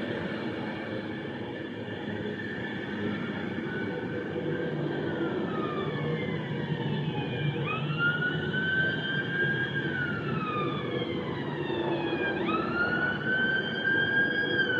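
Avanti West Coast train pulling out along the platform, a steady low rumble. From about halfway, a siren wails over it: a high tone that jumps up, holds, then slides slowly down, twice, about five seconds apart.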